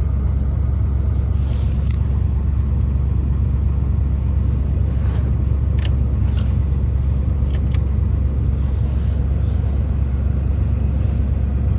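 1991–92 Chevrolet Caprice V8 idling steadily with a deep, even rumble just after a cold start in freezing weather, the engine having smoothed out as it begins to warm up.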